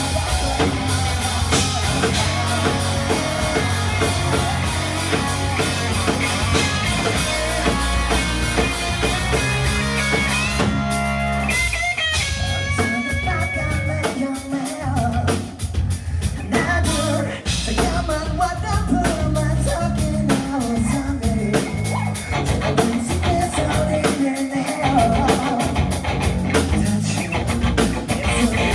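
Live rock band playing: drum kit, electric guitar and bass. The music thins out briefly about halfway through, then comes back in with fast, driving drumming.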